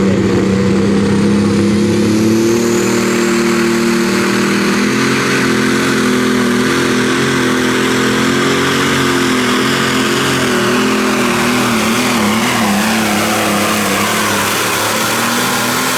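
Diesel engine of a pulling tractor held at high revs under full load during a pull, the engine note steady with a slight wavering in pitch and a high whine and hiss above it.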